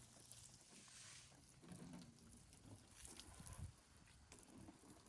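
Faint garden-hose water spattering onto a car as it is wetted down, the hose giving only a weak flow, with a few low rumbles.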